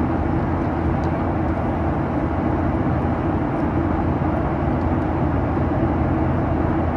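Steady cabin roar of a Boeing 737-800 climbing after takeoff: its CFM56-7B turbofans and the rushing airflow, heard from inside the cabin as a constant low rumble with a steady hum.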